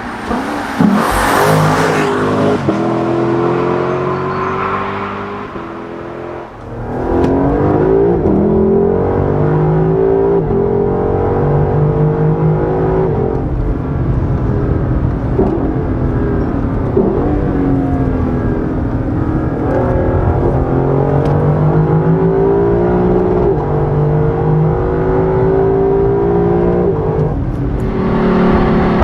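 2020 Lexus LC 500's 5.0-litre V8 running under way, its revs rising and falling repeatedly. A loud rushing noise comes about a second in, and the engine note dips briefly before picking up again a few seconds later.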